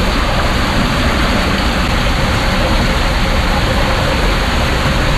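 Steady, loud rush of water and wind on the microphone during a ride down a water slide.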